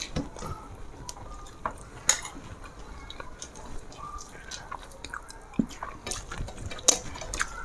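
Eating sounds at a meal table: chewing and small clicks and clinks of plates and utensils, with a couple of sharper knocks, about two seconds in and again near the end.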